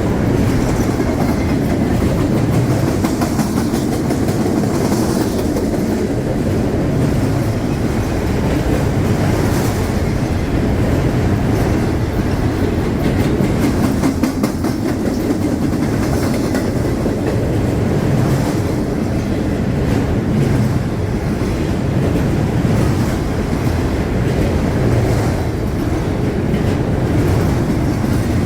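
CSX freight train rolling past at speed, its cars' wheels clacking steadily over the rails with a continuous rumble.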